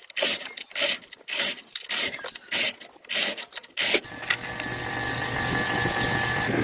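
Repeated rasping strokes of a hand tool, like filing or scraping, at about two a second. About four seconds in they give way to a steady motor running with a low hum and a thin high whine.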